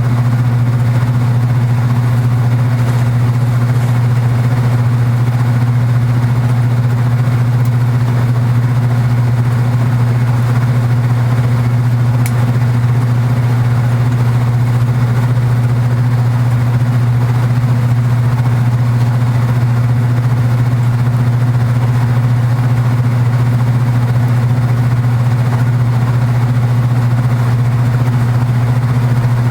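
Kenmore belt-drive portable washing machine running with a loud, steady, unchanging hum. The hum is the cabinet buzz its owner says the machine still has.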